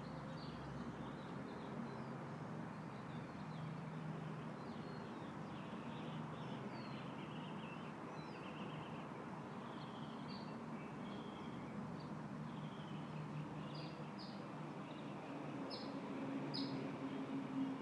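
Small birds chirping and calling on and off over a faint, steady background hiss, with a few sharper chirps near the end.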